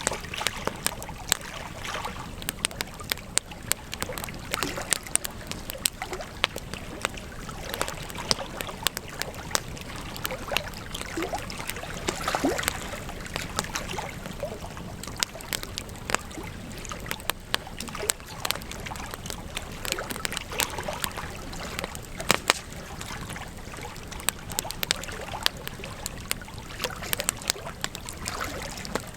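Campfire crackling: frequent, irregular sharp pops and snaps of burning wood over a steady hiss of flames, a little louder about twelve seconds in.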